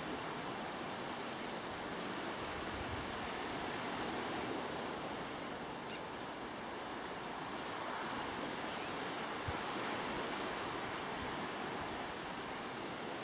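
Steady outdoor rushing noise that holds an even level throughout, with no distinct events.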